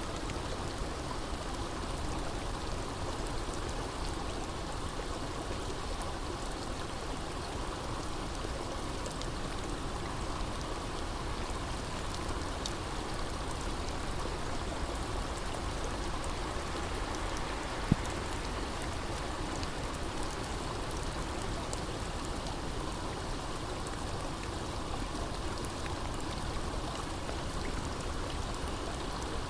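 Steady water noise, like rain or running water, continuing evenly throughout, with one sharp click about eighteen seconds in.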